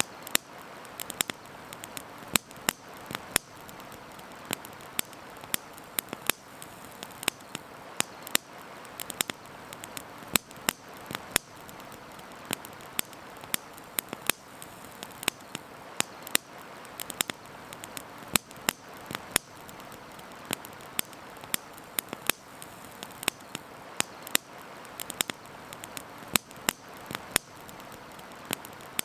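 Wood campfire crackling, with irregular sharp pops and snaps several times a second, over a steady rush of flowing river water.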